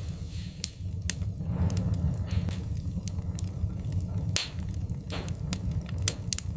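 Wood fire crackling: irregular sharp pops, about one or two a second, over a steady low rumble of burning.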